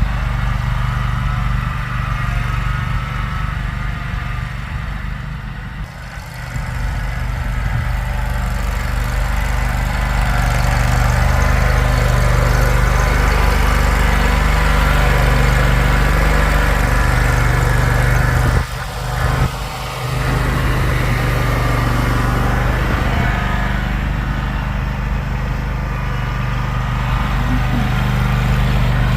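A motor engine running steadily, with a brief drop in its sound about two-thirds of the way through.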